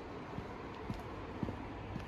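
Train running, heard as a steady low rumble with a few irregular short knocks.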